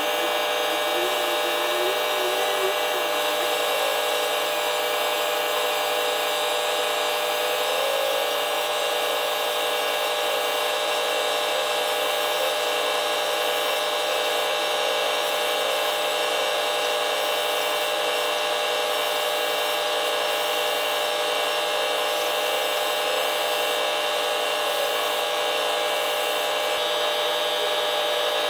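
Power sander running steadily, sanding aluminum sheet with 1000-grit paper.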